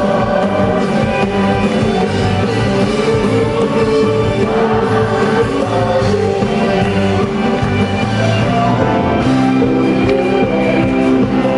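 Live concert music: a band playing a folk-pop song, with singing.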